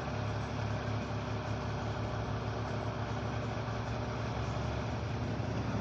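Emergency vehicle's engine idling steadily, a low even hum with several steady tones.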